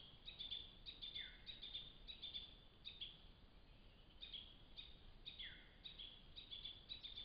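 Faint bird song: repeated strings of short, high chirps, with a lower note sliding downward about a second in and again about five seconds in.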